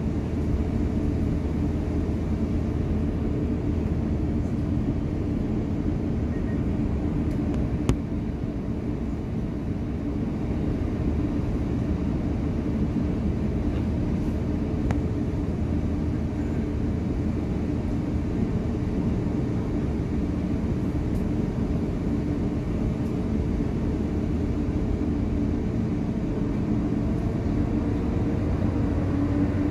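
Steady cabin rumble of an Airbus A350-900 with its Rolls-Royce Trent XWB engines running, with a low hum and a single click about eight seconds in. Near the end a rising whine begins as the engines spool up.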